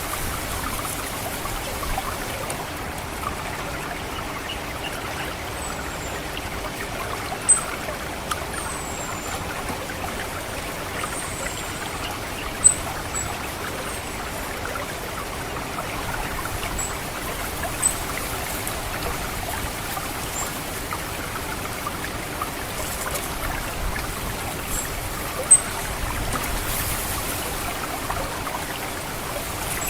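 Steady trickling water in rice-paddy channels, with short, thin, very high call notes of an orange-headed thrush (the 'ngecit' call) at scattered intervals. Some notes are single sharp chips and some are brief downward slurs.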